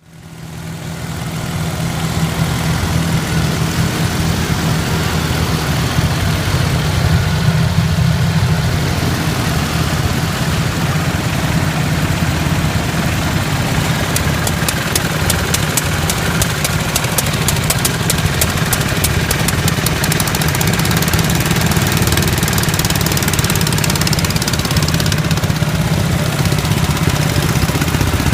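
Small garden tractor engine running steadily. It fades in over the first couple of seconds.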